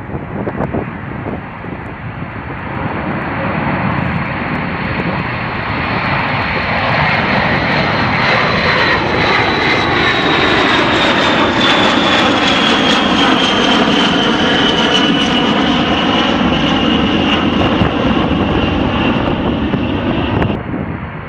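Jet aircraft flying past: the engine roar builds over the first few seconds while a high whine slides steadily down in pitch as it goes by. The sound changes abruptly near the end.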